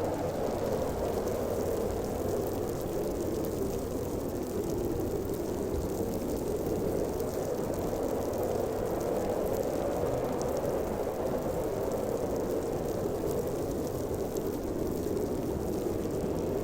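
Blizzard wind blowing steadily: a continuous low, whooshing rush with slight rises and falls in strength.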